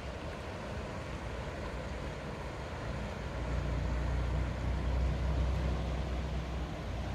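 Low, steady drone of a large engine passing, swelling from about three seconds in and easing near the end.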